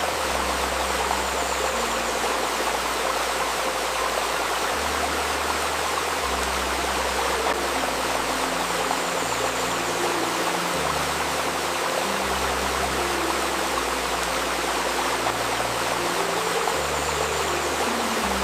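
River babbling with a steady rush of flowing water. Soft, low sustained tones from layered healing music sit beneath it, shifting pitch every second or two.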